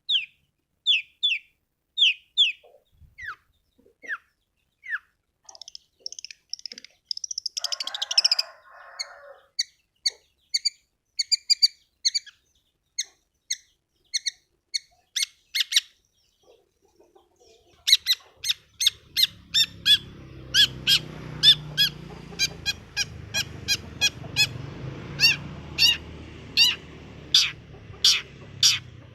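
Long-tailed shrike (cendet) calls played as a lure: spaced sharp, downward-sweeping notes, then a harsh chatter about eight seconds in. From about 18 s in, quick sharp calls repeat roughly twice a second over a low rumbling background noise.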